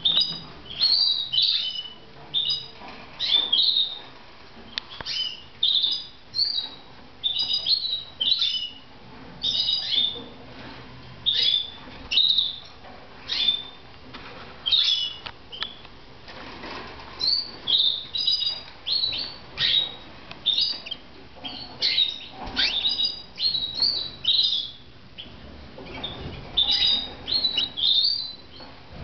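Red mosaic canaries chirping: short, high chirps in quick clusters, repeating every second or so.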